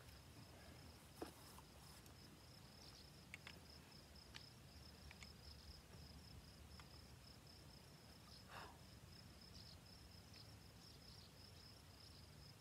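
Near silence outdoors: a faint, steady, high-pitched insect trill, with a few soft clicks scattered through it.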